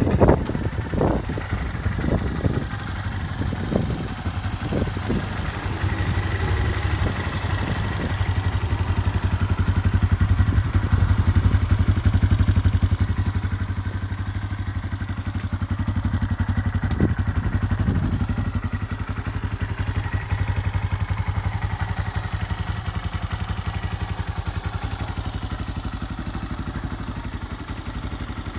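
A Honda Grom's 125 cc single-cylinder engine idles steadily through an aftermarket muffler. There are several knocks in the first few seconds and two more after the middle, and the engine runs slightly louder for a few seconds around the middle.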